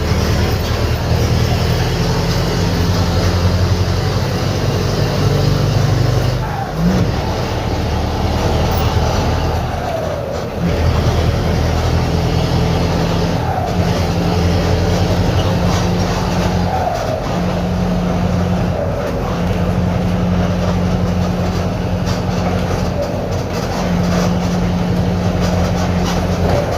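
Mercedes-Benz OF-1721 bus diesel engine running under way, heard with a holed, leaking exhaust. The engine note breaks off and picks up again twice, about 7 and 10 seconds in, then runs steadily on.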